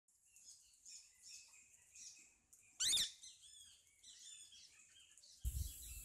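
Birds chirping in many short, high calls, with one louder call about three seconds in. A low rushing noise starts just before the end.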